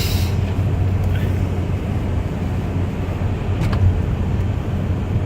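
Steady low drone of a car driving, heard from inside the cabin. A short tick comes right at the start and a fainter one later on.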